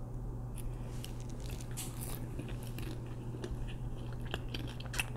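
Close-miked chewing of a sauce-dipped waffle fry: soft wet mouth clicks and smacks scattered throughout, over a steady low hum.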